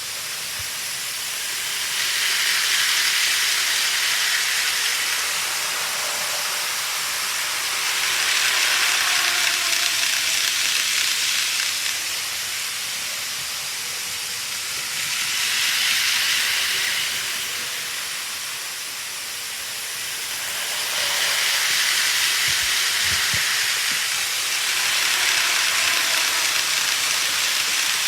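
Model trains rolling along the layout's track: a steady rushing hiss of wheels on rail that swells several times, each for a few seconds, as trains pass close by.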